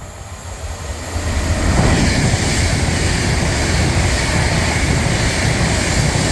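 Class 390 Pendolino electric multiple unit passing through the station without stopping: a rushing noise of the train that builds about a second and a half in and stays loud.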